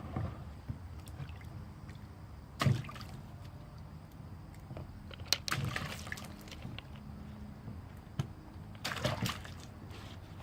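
Water splashing and sloshing in three short bursts, the loudest about two and a half seconds in.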